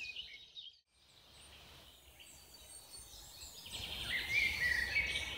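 Songbirds chirping and singing. The calls are faint at first and drop to near silence for about a second. From about three and a half seconds in they become clearer, with repeated high chirps and short sliding calls over a low background rumble.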